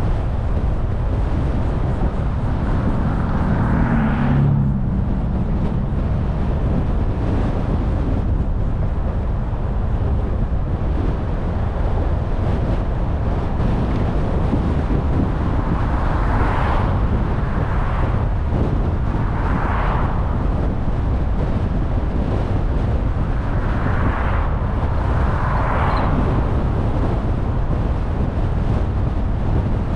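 Steady road and tyre noise of a car driving, with a few other vehicles swelling past and fading: one about four seconds in and four more in the second half.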